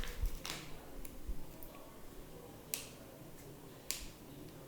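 A few separate sharp clicks and light taps of small things being handled on a desktop, spaced irregularly over a few seconds.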